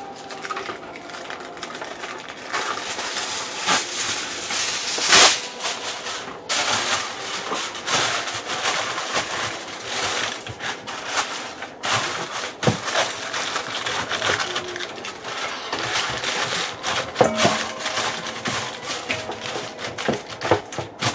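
Aluminum foil crinkling and crackling as it is torn off and pressed into a square baking pan to line it, a dense run of sharp crackles with a loud crunch about five seconds in.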